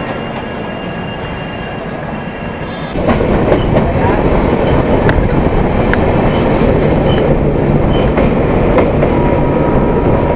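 Express passenger train running, a steady rumble and rush of its wheels on the rails, which becomes suddenly much louder about three seconds in.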